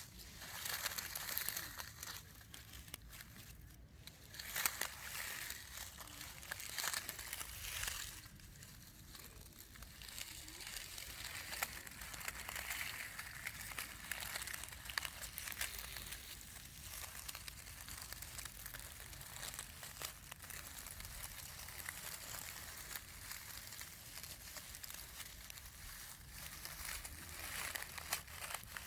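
Close-miked rustling and crinkling of dry grass, in loud bursts over the first several seconds and then as a steadier, softer rustle with small crackles.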